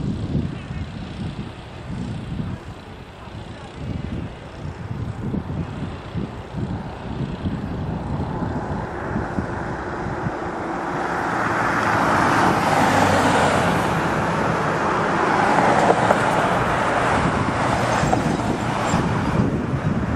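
Motor vehicle noise: a low, uneven engine rumble, then a rushing sound that swells from about eight seconds in and eases off near the end, like a vehicle passing close by.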